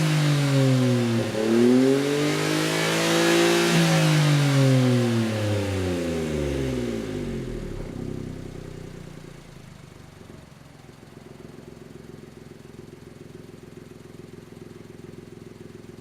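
Daihatsu Hijet Cargo's turbocharged 660 cc three-cylinder engine revving through a one-off exhaust with a single round silencer. There are two quick blips, then a longer rev that peaks about four seconds in, and the engine settles to a steady, much quieter idle by about eight seconds.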